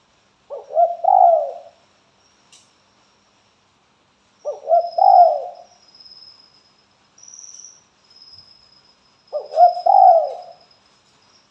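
Spotted dove calling: three cooing phrases about four and a half seconds apart, each a quick run of low coos lasting just over a second.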